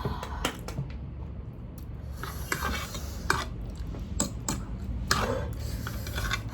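Eating utensils clicking and scraping against a bowl while noodles are stirred and picked up, in short scattered knocks and rubs.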